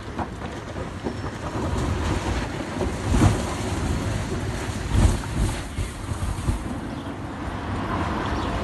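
Wind rumbling on the microphone outdoors, with two heavy thumps about three and five seconds in.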